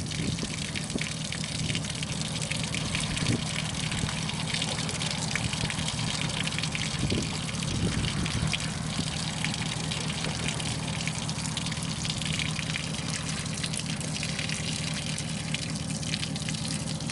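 Water running steadily out of the back of a 2007 Sea-Doo Challenger 230 boat's hull as it drains. The amount is the measure of how much leaked in through the Flex-Sealed hull crack, and the flow is already dying down.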